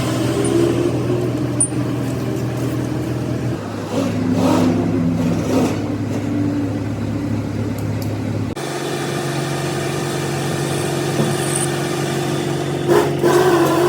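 Machinery running steadily with a low, even hum. Its pitch and tone change abruptly twice, and a few short knocks come near the end.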